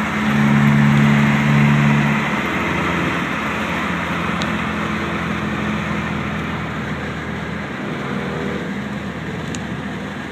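Car engine pulling hard at highway speed, heard from inside a moving car over road and wind noise. The engine note is loudest for the first two seconds, then eases and fades gradually.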